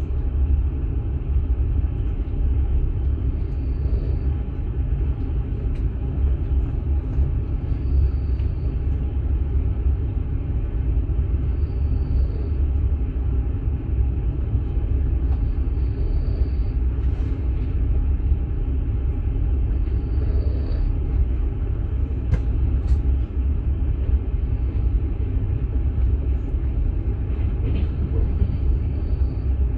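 Steady low rumble inside an open-plan sleeper car of a moving long-distance passenger train, from the wheels running on the rails and the carriage in motion. Faint short high hisses recur every four seconds or so over the rumble.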